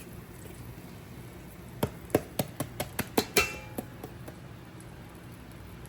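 Cookware clinking and tapping: a quick run of about nine sharp clinks over two seconds, starting near two seconds in, a couple of them ringing briefly.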